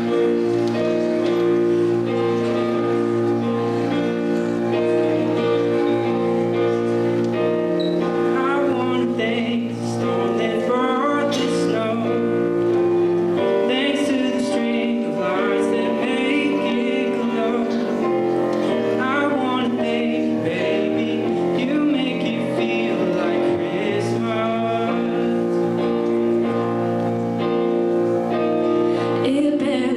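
A live Christmas song performance. Instrumental accompaniment plays held chords, then singing voices come in about eight seconds in and carry on over the accompaniment.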